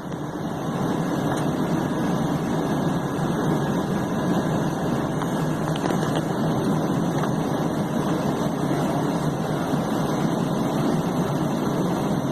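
King Air B200's Pratt & Whitney PT6A turboprop engines running steadily at idle, a continuous loud drone.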